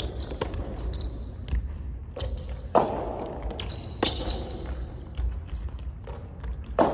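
Soft tennis rally: the soft rubber ball struck by rackets and bouncing on the court, a sharp hit every second or so, with high shoe squeaks in between.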